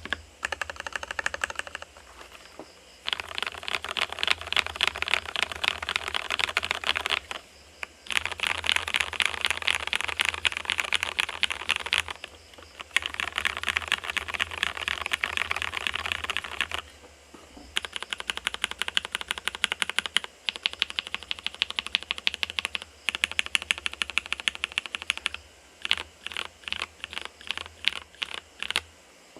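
Typing on a 45% ergo mechanical keyboard with lubed, filmed Gateron Yellow linear switches on an FR4 plate in a stacked acrylic case: fast runs of keystrokes broken by short pauses every few seconds, then slower single presses near the end. A low hum sits underneath.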